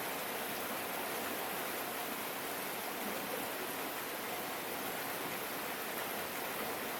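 Steady rain falling, an even hiss with no separate drops or breaks.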